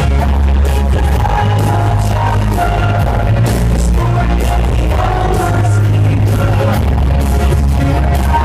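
A live pop-rock band playing loud through a concert PA, with deep sustained bass notes that change every second or two and melody lines over them.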